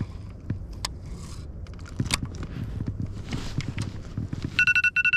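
Scattered knocks and clicks of gear handled in a kayak, then, near the end, an electronic alarm starts beeping in short, evenly pitched pulses, a timer signalling that fishing time is up.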